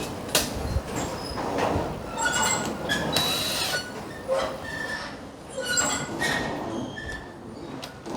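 Metal parts scraping and clanking against each other, with short high squeals and sharp knocks scattered through, as steel truck-bed hardware is moved and fitted.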